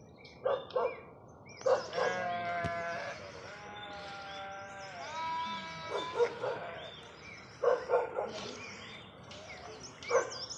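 Goats bleating: short calls come in pairs several times, and two long drawn-out bleats sit in the middle, the second bending in pitch.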